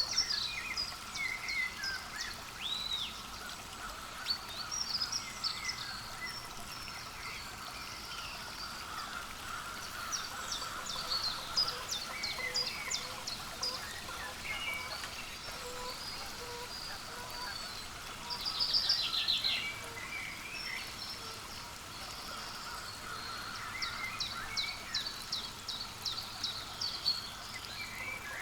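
Small songbirds chirping and calling again and again, with short high notes and quick trills, including a louder run of calls about two-thirds of the way in. Underneath runs a steady, lower background of outdoor sound.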